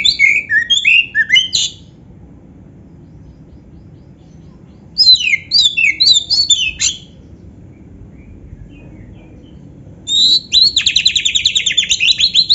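Oriental magpie-robin (kacer) singing a varied song laced with canary-style phrases, in three bursts of quick, sliding whistled notes with short pauses between; the last burst, about ten seconds in, holds a rapid, even trill.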